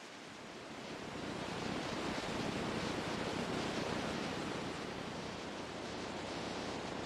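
Rushing water, a steady noise with no distinct events, swelling about a second in and easing slightly after the middle.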